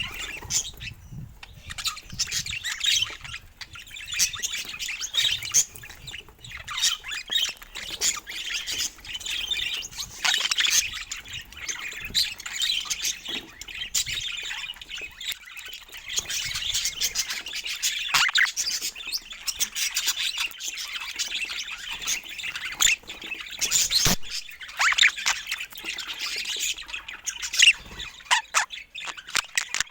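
Budgerigars chattering continuously in a busy, high-pitched stream of chirps and warbles, with a few louder, sharper calls standing out.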